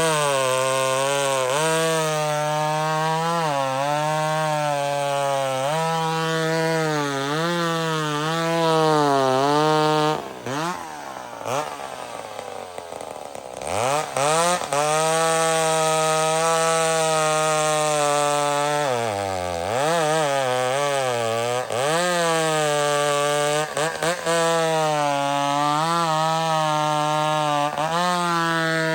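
Vintage McCulloch Super Pro 70 two-stroke chainsaw, hot-rodded, running at high revs through wood, its pitch sagging and recovering under load in the cut. About ten seconds in it drops toward idle for a few seconds, then revs back up and cuts again, with another brief dip and rise later on.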